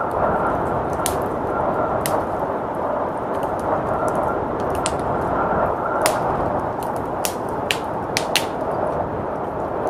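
Wood fire crackling with sharp, irregular pops over a steady rush of blizzard wind.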